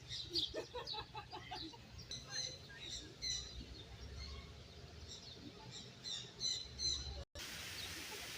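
Birds chirping and calling in quick short notes, several at a time. Near the end the sound cuts out briefly and gives way to a steady background hiss.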